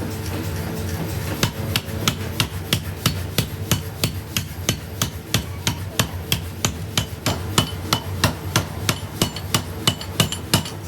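Rapid, regular metal strikes, about three a second, starting about a second and a half in, over a steady low machine hum.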